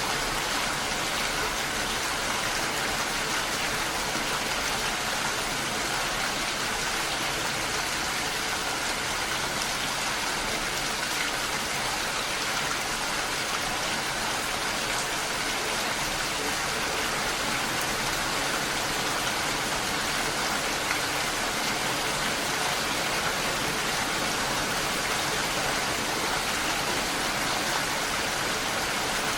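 Steady rain falling: an even, unbroken hiss that neither builds nor eases.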